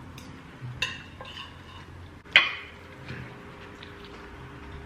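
Metal cutlery clinking against plates and bowls during a meal: a few separate clinks, the loudest about two and a half seconds in with a short ring.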